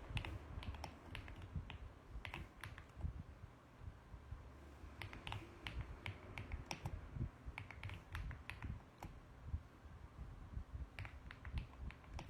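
Typing on a mechanical keyboard: quick runs of key clicks in short bursts, with brief pauses between them.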